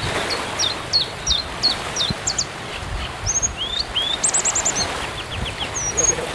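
Small birds chirping: a string of short, high notes, many sharply falling, some in quick runs of four or five, over a steady low rumble of background noise.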